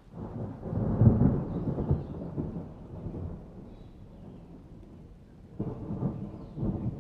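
Thunder rumbling: a loud roll that swells within the first second and dies away over the next two, then a second, shorter roll near the end.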